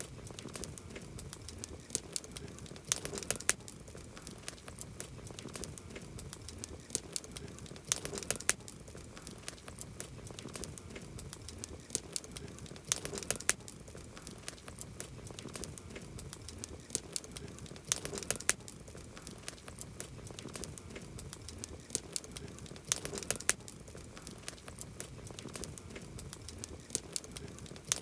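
Wood campfire crackling: a steady scatter of sharp pops and snaps from the burning wood, with a cluster of louder pops about every five seconds.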